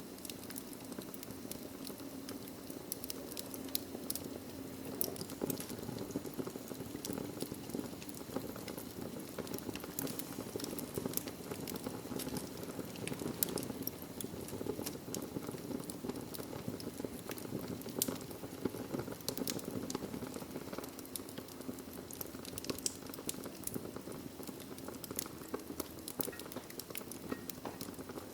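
Wood fire burning logs in a fireplace: a steady low rush of flame with frequent sharp crackles and pops from the wood.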